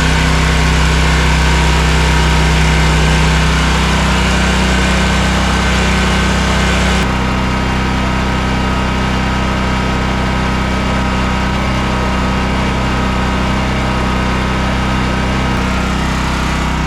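Toro Z587L zero-turn mower engine running steadily at idle during a test of its radiator fan, which should be running and is not. About seven seconds in the sound steps down slightly and turns duller, then runs on steady.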